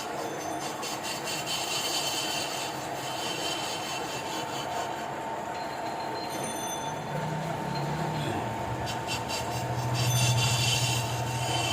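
Apache RTR motorcycle running on the move, a steady rumbling clatter with road noise; a low engine hum comes up about seven seconds in and grows louder near the end.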